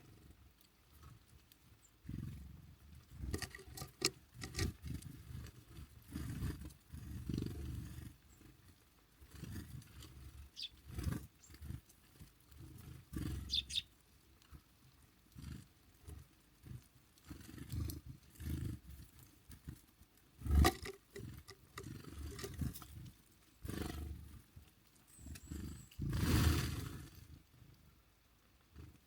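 Small birds at a feeder close to the microphone: irregular low rumbling bursts and sharp knocks, with a few faint high chirps.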